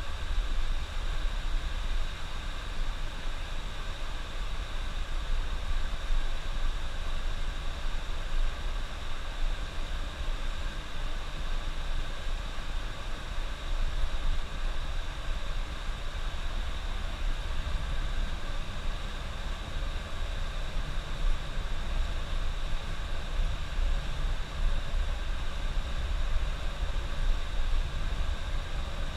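A coach bus on the move, heard from the driver's cab: a steady low engine drone with constant road noise.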